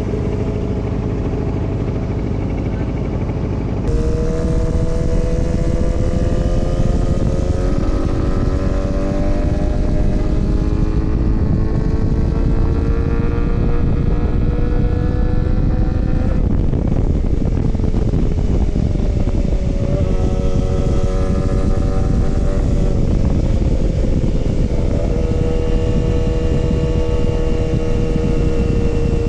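Motorcycle engine under way, its pitch climbing slowly as it pulls, then dropping and climbing again with gear changes a few times, over a heavy rumble of wind on the microphone.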